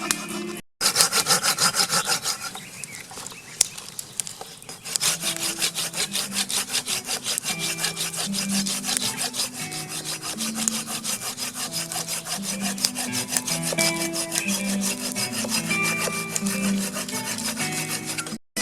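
Fast, even scraping strokes with a melody of short, low held notes over them. The sound drops out abruptly for a moment less than a second in, and the scraping thins for a couple of seconds before picking up again.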